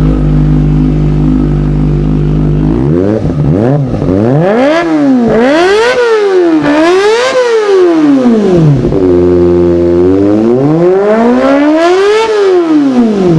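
Kawasaki ZX-25R 250 cc inline-four engine idling through its exhaust, then revved repeatedly: two short blips followed by three rising and falling revs. After a few seconds at a steady raised idle, it gives one longer rev up to a high scream and drops back down.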